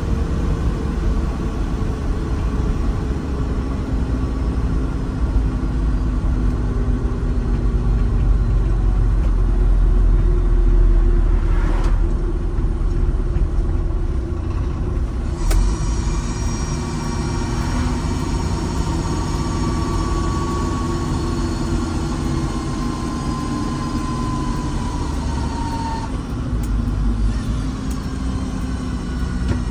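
Diesel engine of heavy construction equipment running steadily under varying load, its pitch shifting as it works. A faint higher whine slowly falls in pitch during the second half.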